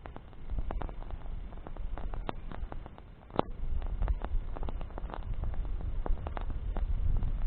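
Campfire of burning branches crackling, with irregular sharp snaps and pops and one louder pop about three and a half seconds in. A low rumble runs underneath and swells toward the end.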